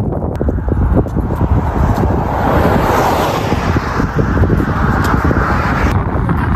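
Wind buffeting the microphone with a heavy rumble, while a vehicle passes on the road, loudest about three seconds in.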